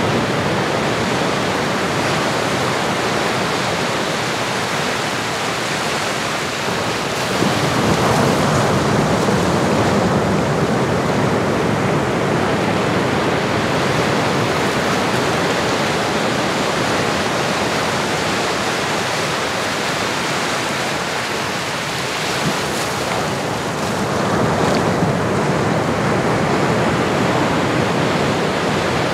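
Ocean surf: a steady wash of breaking waves, with a wave swelling up about a quarter of the way in and another near the end.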